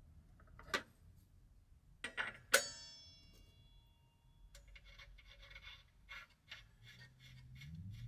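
Metal-on-metal clinks at a tile saw, one strike ringing out for about a second, followed by a run of short rhythmic scraping strokes, two or three a second; a low hum starts to rise near the end.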